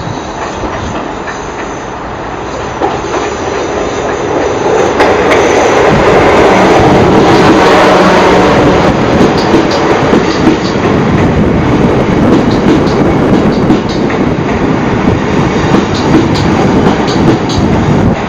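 A train running along the track close by, its rumble building to a loud peak a few seconds in and staying loud, with wheels clicking over rail joints through the second half.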